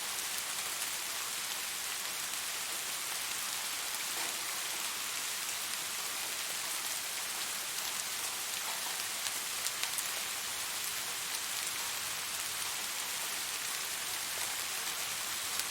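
Steady rain falling and pattering on surfaces, an even hiss with a few sharper drops about ten seconds in.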